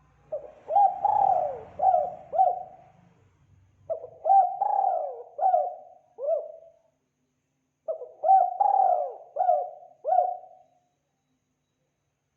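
Spotted dove (tekukur) cooing: three phrases of about five short coos each, a second or so apart, then it falls quiet near the end.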